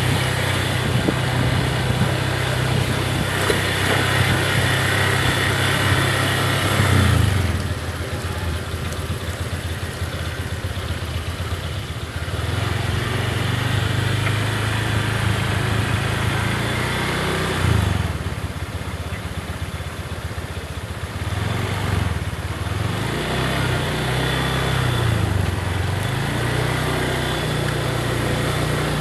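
Motorcycle engine running, its pitch rising and falling as it speeds up and slows down, most clearly in the second half.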